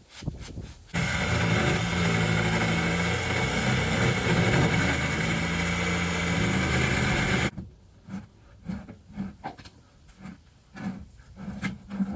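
A power saw cutting through the wooden boards of a truck's grain box. It starts abruptly about a second in, runs steadily under load, and cuts off suddenly about seven seconds in. Light knocks follow.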